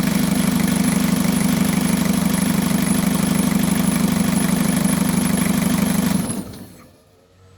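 Toyota L-series diesel engine idling steadily, then shut off about six seconds in, its sound dying away over about half a second. The engine has only just started again after two years without running.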